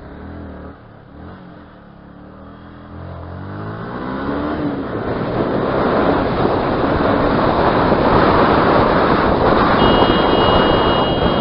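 Motorcycle engine pulling away, its pitch rising as it accelerates, drowned after a few seconds by a growing rush of wind and road noise as speed builds.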